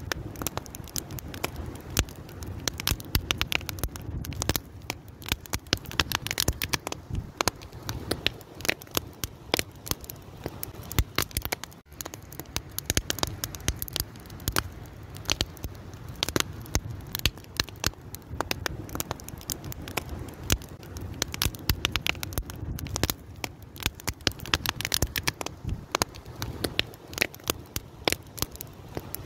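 A fire crackling steadily, with many irregular sharp pops and snaps over a low rumble of burning.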